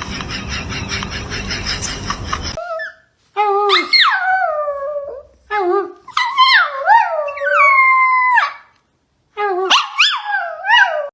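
A dog howling in a series of drawn-out calls, most rising and then sliding down in pitch, with a brief pause about two-thirds of the way through. Before the howls, a different busy, noisy sound cuts off abruptly about two and a half seconds in.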